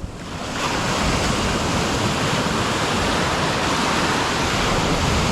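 Ocean surf washing on the beach, a steady rushing that builds over the first second and then holds.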